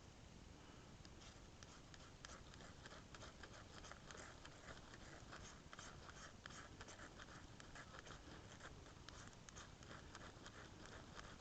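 Fast, faint scraping strokes, several a second, starting about a second in: shavings being scraped off the magnesium side of a fire steel to build a pile of tinder for lighting a fire.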